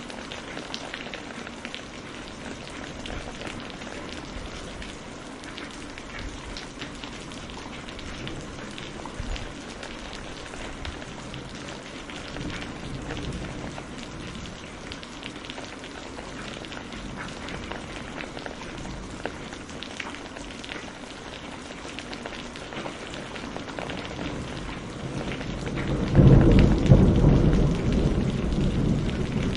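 Steady rain falling, with many separate drop hits heard through it. About 26 seconds in, a loud, low rumble of thunder rolls in.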